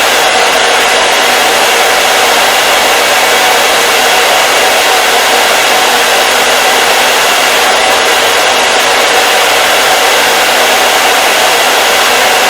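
Electric hair dryer running steadily on a constant setting: an even, unchanging rush of blown air with a faint motor hum underneath.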